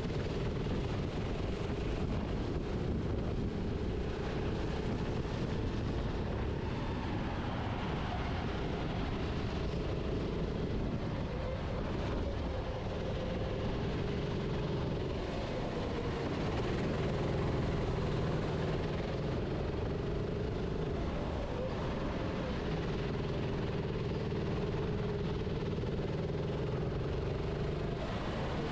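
Racing kart's engine heard onboard, running at speed, its pitch rising and falling over a steady rush of noise.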